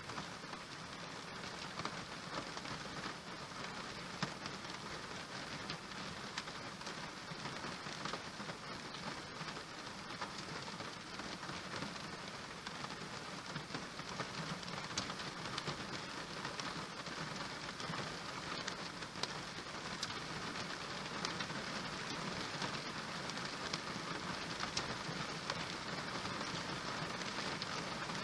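Steady rain falling, a continuous even patter with scattered sharper drop taps.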